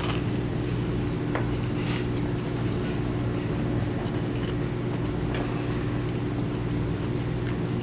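Steady low machine hum made of several even tones, with a couple of faint clicks.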